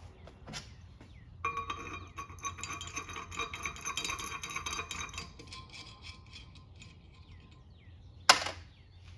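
Small metal tools and parts clinking and ringing against each other for a few seconds, then fading. Near the end comes one loud sharp metal clank.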